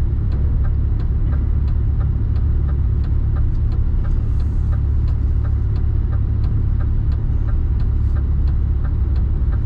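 Mercedes Actros truck's diesel engine running at a low, steady idle, heard inside the cab. Over it, the hazard-light flasher clicks evenly, about three ticks a second, alternating between a higher and a lower click.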